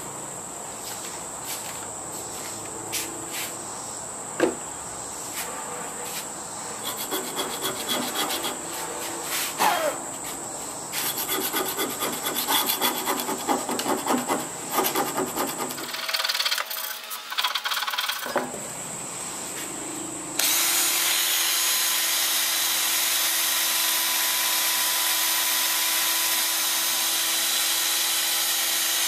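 Hand file rasping in irregular strokes over a rusty hatchet head, cleaning it up. About two-thirds of the way through, a drill fitted with a wire brush starts and runs steadily on the steel.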